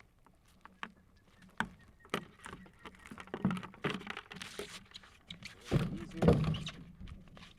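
Handling noise while working a crab trap: scattered clicks and knocks, a scraping rush about halfway through, and a couple of heavier thumps about six seconds in.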